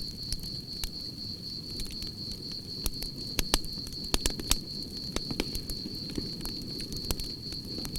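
Campfire crackling, with irregular sharp pops and a low rush of burning wood. A steady, high cricket trill runs behind it.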